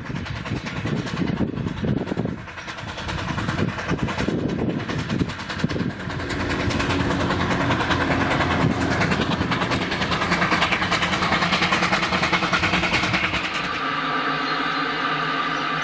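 Narrow-gauge train running, its sound irregular at first, then denser and steady. Near the end a steady pitched tone comes in.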